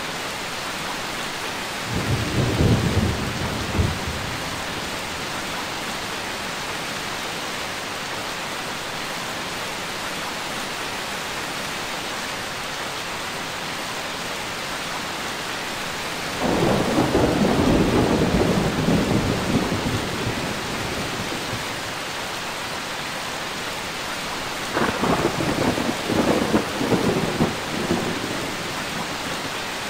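Steady heavy rain with thunder rumbling three times: a short roll about two seconds in, a longer, louder roll a little past the middle, and another crackling roll near the end.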